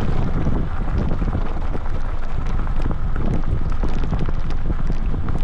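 Wind buffeting the microphone of a handlebar-mounted camera on a moving electric dirt bike, a steady low rumble with scattered small knocks and rattles from the bike on a rough dirt track.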